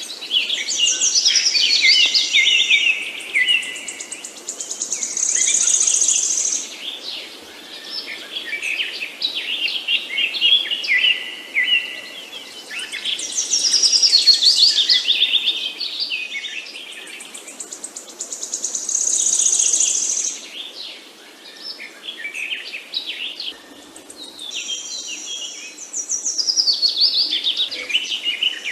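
Several songbirds chirping and singing in overlapping high calls and trills. The same stretch of song comes back about every twelve seconds, as in a looped recording.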